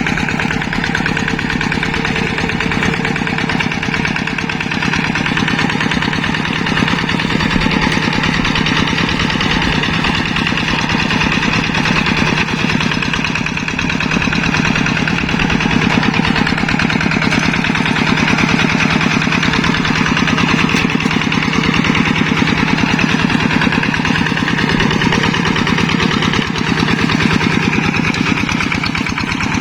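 Yanmar two-wheel hand tractor's diesel engine running steadily with a fast, even firing beat while plowing a rice paddy.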